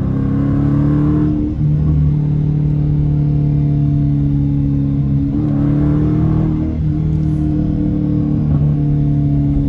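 Dodge Challenger R/T's Hemi V8 through a straight-pipe exhaust, running hard after a downshift with a loud, steady drone. The pitch steps to a new level about a second and a half in, and again around five and seven seconds.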